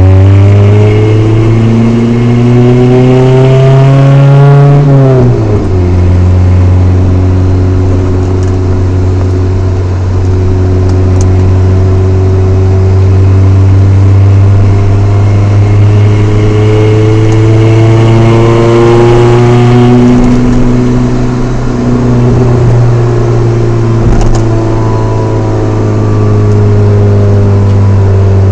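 Chevrolet S10's 2.2-litre four-cylinder running through a Flowmaster 40 dual exhaust, heard from inside the cab during ordinary city driving. The engine note climbs for about five seconds and then drops sharply, holds steady for a long stretch, climbs and drops again about twenty seconds in, and starts climbing once more near the end. There is a slight exhaust leak near the stock manifold, which the owner says may make it sound a little hissy and raspy.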